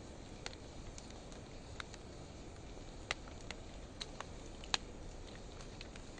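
Wood fire of driftwood and dry hardwood logs crackling: scattered sharp pops, about seven, irregularly spaced over a soft steady hiss of burning, the loudest a little before the end.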